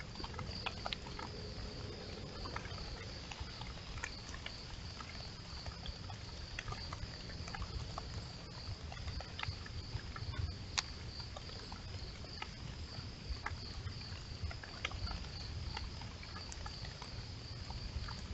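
Outdoor backyard ambience: a steady, slightly pulsing high-pitched drone over a low rumble, with scattered faint clicks and taps.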